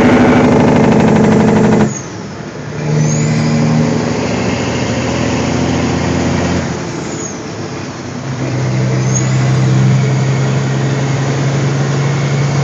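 Heavy truck's engine and exhaust pipes running at road speed, heard from inside the cab with a window cracked open. The engine note drops suddenly about two seconds in, then swells back up about eight seconds in and holds steady.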